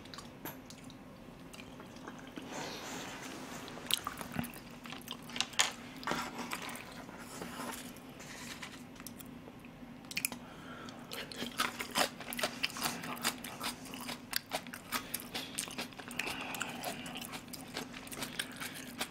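Close-miked chewing: a person eating rice porridge and crunching on a red side dish, with many short sharp crunches and wet mouth sounds that grow busier about halfway through.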